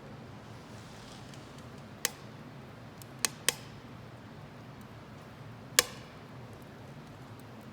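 Wood fire burning in a homemade can-built wood-gas stove, with a low steady burning noise and four sharp crackles of burning wood: one about two seconds in, a close pair a second later, and another near six seconds.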